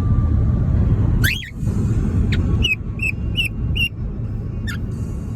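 A pet bird chirping: a sweeping call about a second in, a quick run of four short repeated notes, and another short call near the end, over a steady low rumble.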